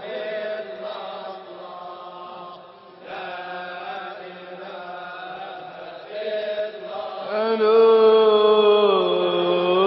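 Sufi devotional chanting (inshad): long, melismatic held notes over a steady low drone, swelling louder about two-thirds of the way through, with the pitch bending down near the end.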